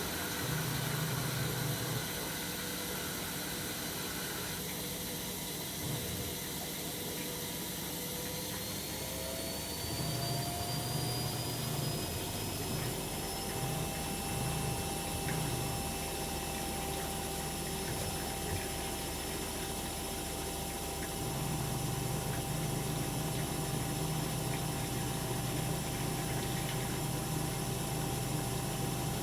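AEG Öko-Lavamat 73749 Exclusiv washing machine running a 95°C boil wash: a steady mechanical running sound with water, and a low hum that comes and goes in spells of a few seconds. A few faint whines rise slowly in pitch.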